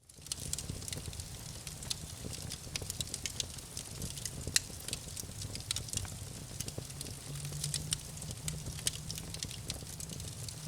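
Campfire crackling: burning wood giving frequent sharp pops and snaps over a low steady hum. The sound fades in at the very start.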